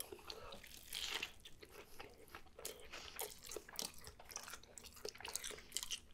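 A person chewing and biting into a messy breakfast burger on a lightly toasted everything bagel, with many small irregular crunches and clicks.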